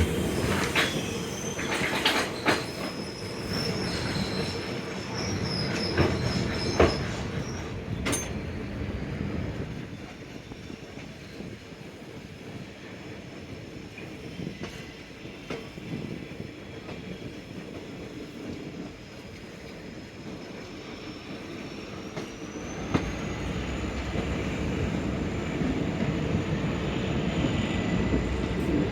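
Passenger train wheels running on the rail. There are sharp clanks and a high wheel squeal in the first several seconds, then a quieter rumble, and louder running again near the end with a thin high whine that rises in pitch.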